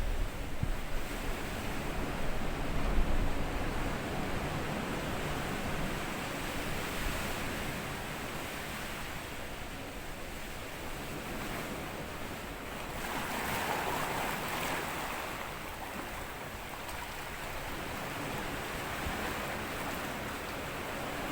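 Small sea waves washing up over sand, a steady wash with one wave surging in louder about two-thirds of the way through. Wind rumbles on the microphone in the first few seconds.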